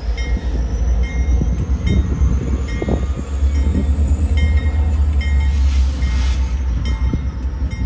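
A train running, with a heavy steady rumble and regular clicks about twice a second. A faint high whine rises slowly through the first half, and a brief high squeal or hiss comes about six seconds in.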